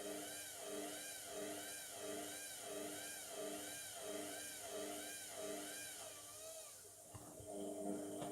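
Indesit MTWC71252WUK washing machine's motor turning the drum, with a whine that rises and falls about twice a second over a steady hum. The whine stops about seven seconds in, followed by a few clicks.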